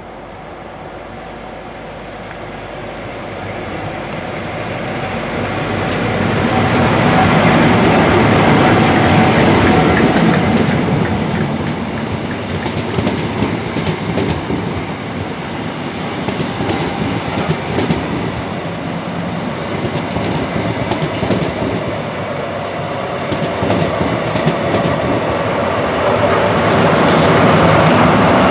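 High Speed Train with Class 43 diesel power cars passing at speed: the sound builds to a loud rush of engine and wheels as the leading power car goes by about seven seconds in. Then come the coaches, with the wheels clicking over rail joints, and the sound swells again near the end as the rear power car passes.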